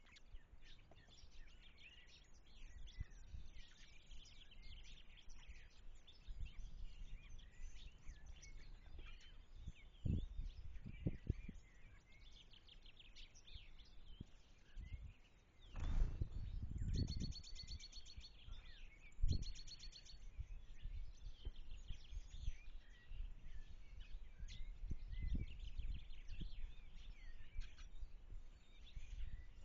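Several small birds chirping and singing, with a rapid high trill twice just past the middle. Low rumbling noise and a few dull thumps underneath, loudest about halfway through.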